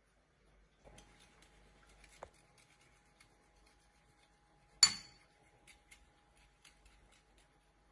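Kitchen utensils and dishes handled during food preparation: light clicks and taps, a knock about two seconds in, and one sharp ringing clink of metal or glass near the middle, over a faint steady hum.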